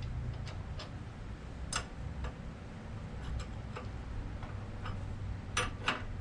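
Scattered light clicks and taps of tooling being handled at a milling machine, irregular and a few per second at most, with a sharper click a little before 2 s and two more near the end, over a low steady hum.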